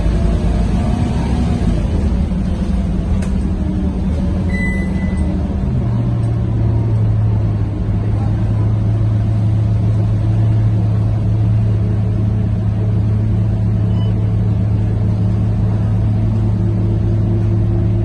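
Scania K230UB bus's five-cylinder diesel engine running under way, heard on board: a steady low drone that shifts to a new, even pitch about five seconds in and holds there. A short high beep sounds just before the shift.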